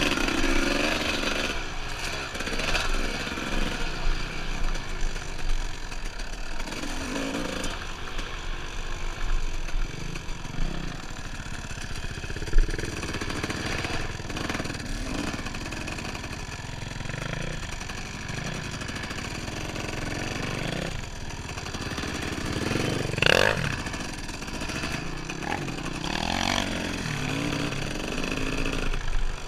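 Dirt bike engine running on a trail ride, its revs rising and falling as the throttle is worked, with a single sharp knock about twelve seconds in.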